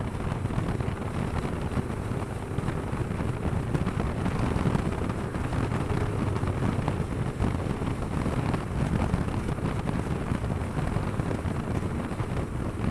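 Motorcycle riding at road speed: heavy wind buffeting on the microphone over the steady running of the engine.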